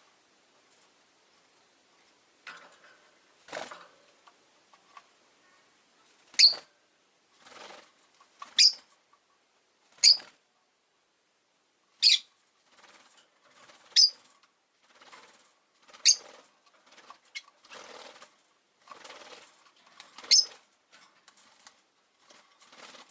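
Rosy-faced lovebird giving short, shrill, high-pitched calls, about seven of them roughly two seconds apart, starting a few seconds in, with softer rustling noises in between.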